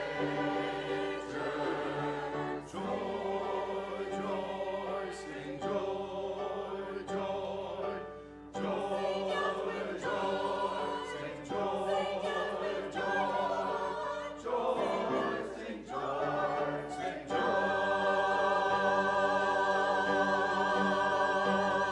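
Choir singing in harmony, phrase by phrase, ending on a long held final chord for the last few seconds that cuts off cleanly.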